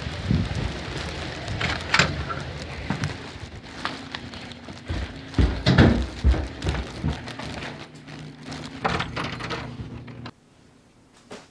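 Heavy rain falling steadily, with a series of irregular knocks and thumps over it. The sound cuts off abruptly to a quiet room near the end.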